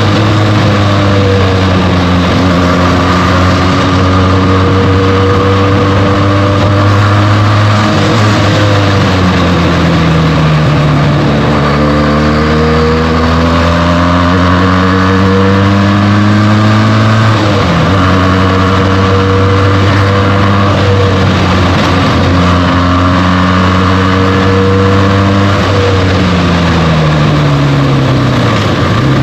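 Benelli TNT 300's 300 cc parallel-twin engine on its stock exhaust, heard from the rider's seat on the move. The engine note climbs under throttle, drops suddenly at a gear change about two-thirds of the way through, and falls away as the bike slows near the end before picking up again.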